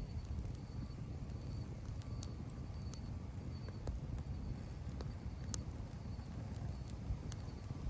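Campfire crackling: scattered sharp pops, about half a dozen, over a steady low rumble.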